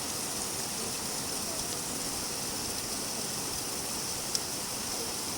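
Steady rain falling, an even hiss of drops, with a single short tick about four seconds in.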